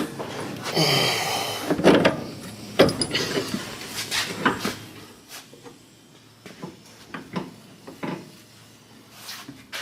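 Hand tools knocking and scraping on the steel front-suspension parts of a 1938 Packard Super 8: a scatter of irregular clanks and taps, busiest in the first half and sparser near the end.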